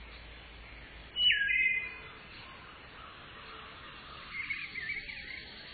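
Wild birds calling, heard through a security camera's microphone. About a second in comes a loud call that drops sharply in pitch, and near the end a short warbling phrase of chirps, over a faint steady hiss.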